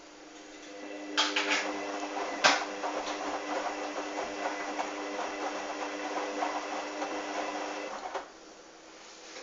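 Hoover washing machine's motor turning the drum in the wash cycle, a steady whine with a few knocks from the tumbling wet towels about one and two and a half seconds in, then stopping abruptly near the end.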